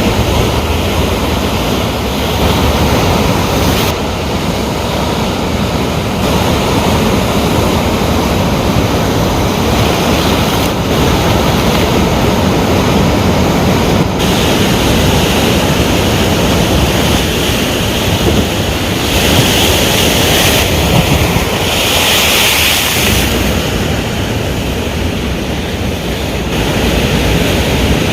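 Ocean waves breaking and washing on the shore in a continuous surf wash that swells and eases, with wind buffeting the microphone.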